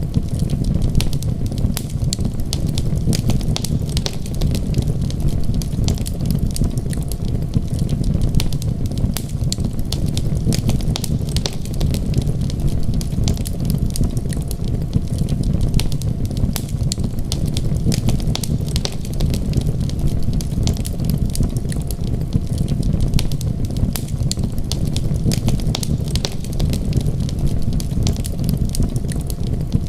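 Wood fire crackling, with frequent sharp little pops and snaps over a steady low rumble.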